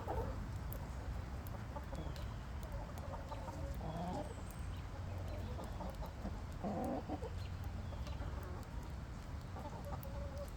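Domestic hens clucking softly now and then, a few short separate calls, over a steady background of rain.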